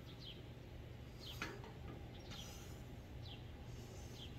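Birds chirping: short, falling chirps repeated every half second or so over a steady low hum, with one soft knock about a second and a half in.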